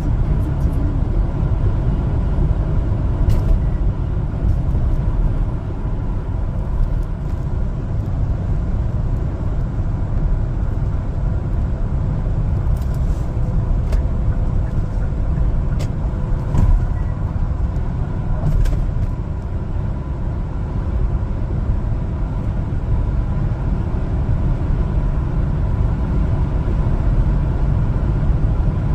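One-ton LPG cargo truck driving: steady engine and road noise.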